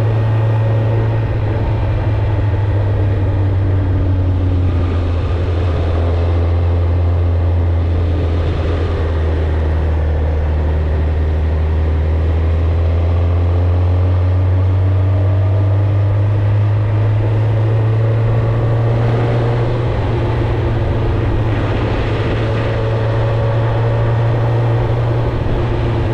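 Suzuki GSX-R1000 inline-four engine and exhaust running steadily at cruising speed under a riding motorcycle, with a constant low drone and only small rises and falls in engine speed.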